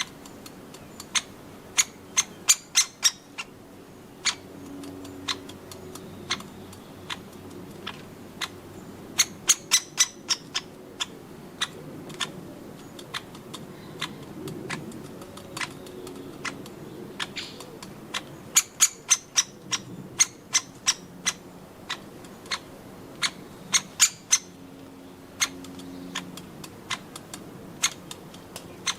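Woodpecker pecking, sharp taps in quick runs of four to six strikes with single taps between them.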